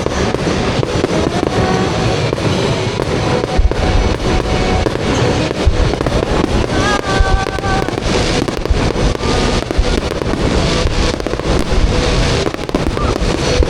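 Fireworks going off in quick succession, a steady barrage of deep booms and sharp cracks, with music playing underneath.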